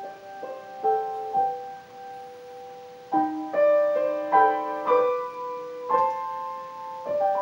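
Piano accompaniment playing alone in the closing bars of an art-song arrangement, after the voice has finished. A few struck notes ring and fade in the first second and a half. From about three seconds in comes a run of fuller chords, and one more chord falls near the end.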